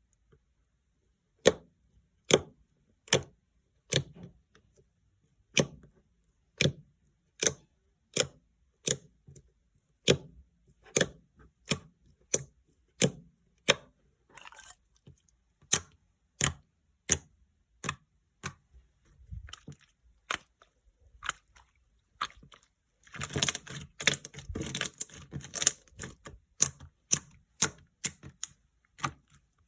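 Jiggly slime being pressed and poked by hand, giving sharp clicking pops a little more than once a second, with a dense run of crackling pops for a few seconds near the end.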